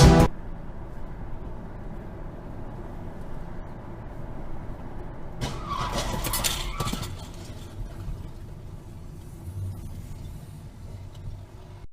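Car road noise, with a louder stretch of about a second and a half about halfway through, in which a squeal rises and falls.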